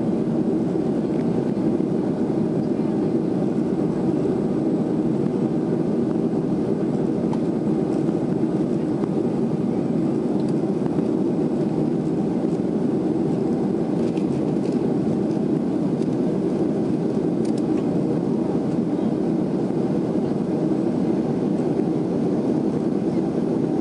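Steady, loud cabin noise of a Boeing 737-400 with its CFM56-3 turbofan engines running, a deep even rush of engine and airflow heard from inside the cabin.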